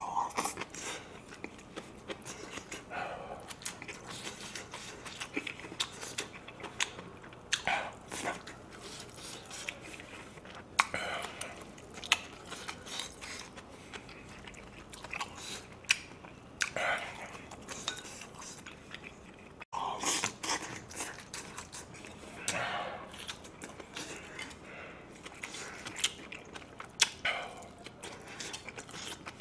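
Close-up chewing and biting of grilled pork belly and kimchi: irregular wet mouth sounds of a person eating big mouthfuls, with scattered sharp clicks.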